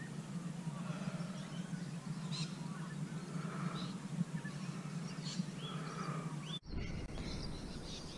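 Water birds calling in short, rising calls over a steady low hum. About six and a half seconds in, the sound cuts abruptly to a low rumble of wind on the microphone.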